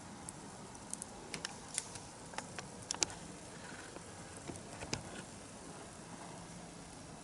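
Wood bonfire crackling: irregular sharp pops and snaps over a soft steady hiss, bunched from about one to five seconds in, with the loudest pop about three seconds in.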